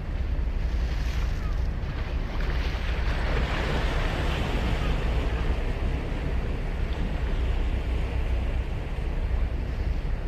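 Sea waves breaking and washing up the beach: one wave's wash swells about two seconds in and dies away. Under it runs a steady low rumble of wind on the microphone.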